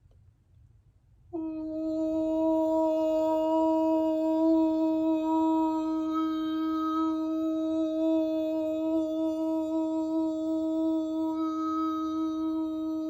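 A person's voice toning a single long, steady note, starting suddenly about a second in and held without a break: vocal toning used for sound healing.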